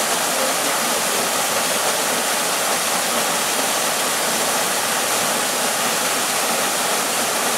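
Waterfall rushing steadily: a constant even roar of falling water.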